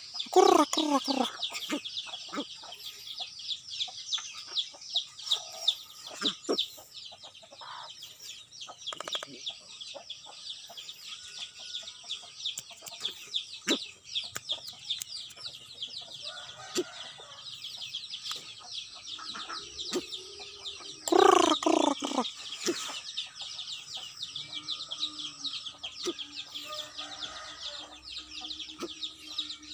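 Birds calling over a dense, continuous high-pitched chirring. Two loud calls drop steeply in pitch, one right at the start and one about two-thirds of the way through, with scattered fainter calls between.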